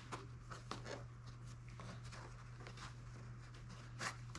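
Faint clicks and light scraping as a tightly fitted repair piece is worked in and out of a hole in a foam RC airplane wing, over a steady low hum. There is a slightly louder scrape near the end.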